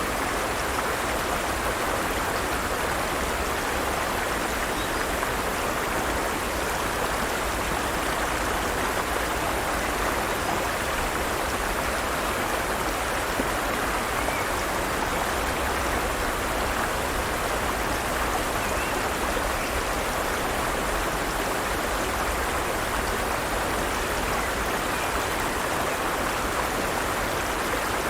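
A forest stream flowing over rocks: a steady, even rush of water.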